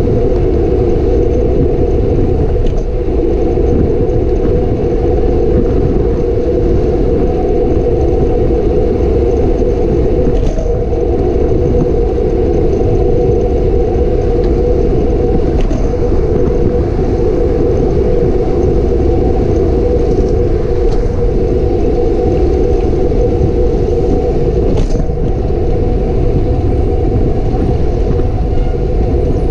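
Steady wind rush and road rumble on a camera riding along on a bicycle, with a few faint ticks.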